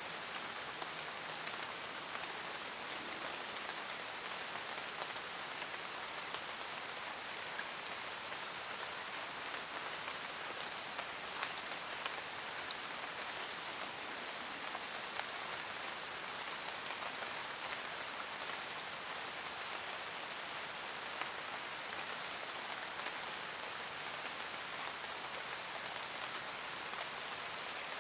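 Steady rain falling in a forest, a dense even hiss with the occasional distinct drop ticking through it.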